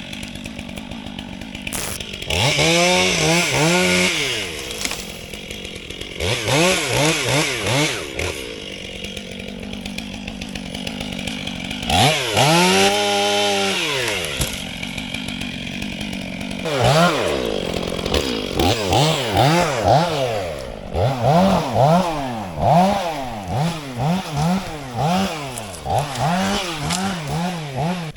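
Two-stroke chainsaw revving up and down over and over. There are a few separate revs at first, then quick revs about once a second near the end.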